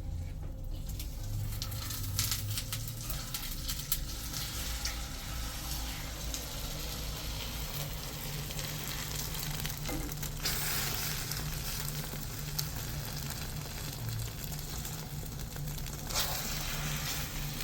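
Food frying in hot oil in a pan, a steady sizzle full of small crackles, with stirring. The sizzle swells briefly about halfway through and again near the end.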